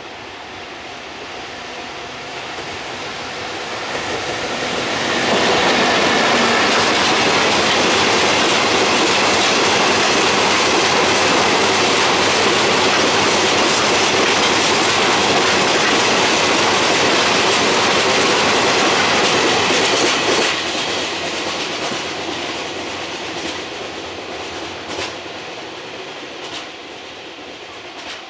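Freight train of Hoki 9500 hopper wagons hauled by an EF64 electric locomotive passing close by. The wheel and rail noise builds over the first five seconds, holds loud and steady for about fifteen seconds as the wagons roll past, then fades as the train pulls away, with separate wheel clicks over the rail joints near the end.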